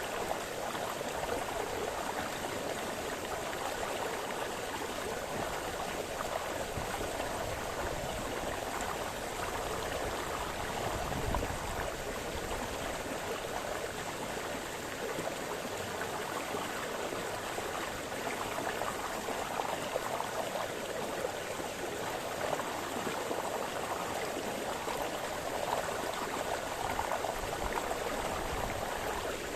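A small brook running steadily over stones, a continuous splashing and babbling of water.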